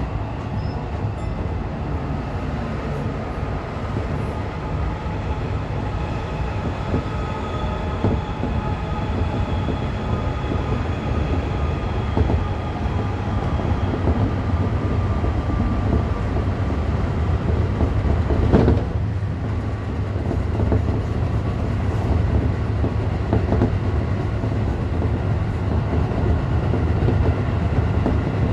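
Tokyo Metro Fukutoshin Line express train running at speed: a steady rumble of wheels on rail with a faint whine of several steady tones from the traction equipment, and a single sharp clack over a rail joint about two-thirds of the way through.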